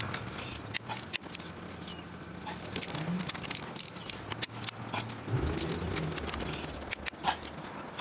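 Irregular light clicks and taps from hand tools working in the engine bay, with a low hum underneath.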